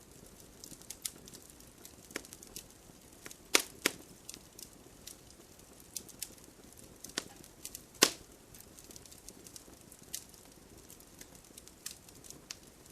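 Wood fire burning in a fireplace, crackling with irregular sharp pops over a soft steady hiss; the loudest snaps come a little under four seconds in and again about eight seconds in.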